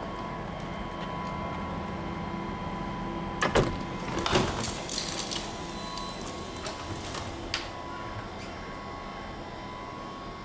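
Steady electrical and ventilation hum inside a stationary double-decker regional train carriage, with two loud knocks about three and a half seconds in followed by a short clatter of smaller clicks, and one more click a few seconds later.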